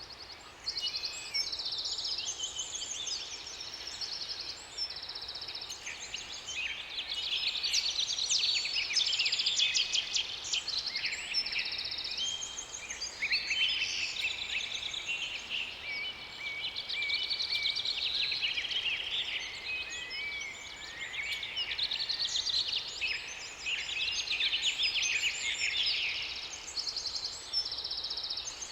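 Several songbirds singing at once, a dense chorus of overlapping chirps, rapid trills and whistled phrases.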